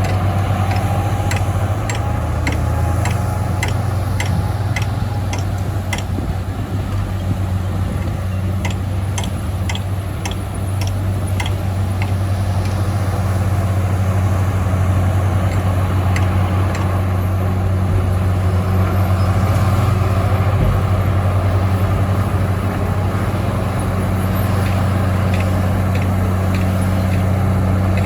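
Heavy diesel engine of earthmoving equipment running steadily with a deep drone, with a string of sharp metallic clicks and clanks through it, most frequent in the first half.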